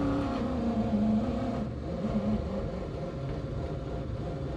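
Power window motor in a Mazda RX-7 (FC3S) door running, with the glass sliding in freshly greased seals: a whine that drops slowly in pitch for about a second and a half, breaks off, comes back briefly, and gives way to a low steady hum.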